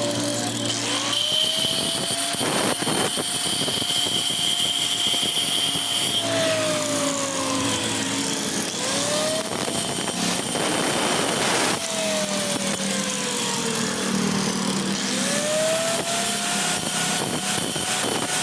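An electric power tool motor whose pitch speeds up quickly and then sags slowly, three times over, with a couple of bursts of harsh grinding noise.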